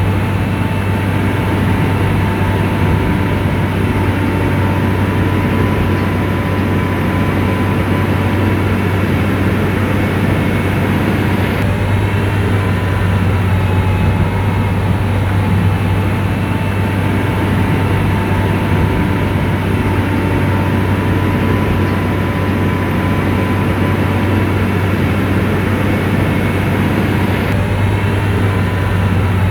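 Komatsu bulldozer's diesel engine running steadily under load, a deep continuous drone with a steady whine on top from the tracks and drive.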